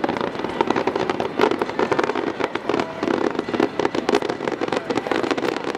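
Fireworks going off in a dense, irregular run of rapid cracks and pops, many per second.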